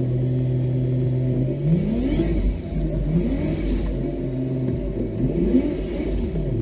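Off-road vehicle engine running at a steady speed, then revved up and down several times in quick succession from about a second and a half in, as the throttle is worked.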